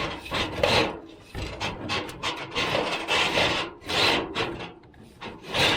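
Metal stovepipe scraping and rubbing against the inside of a masonry chimney flue as it is fed down, in repeated, irregular pulls.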